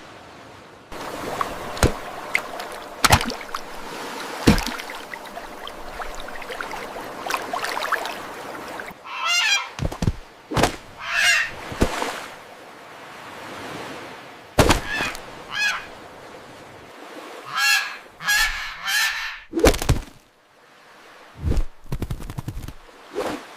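Seagull sound effect: a gull calling repeatedly in harsh, honking squawks, in two bursts of several calls each. Sharp clicks and knocks are scattered between the calls.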